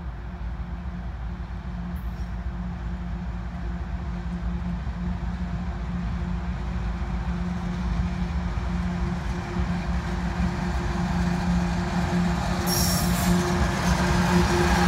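Approaching CSX diesel freight locomotive: a steady low engine drone and rumble that grows steadily louder as the train comes closer.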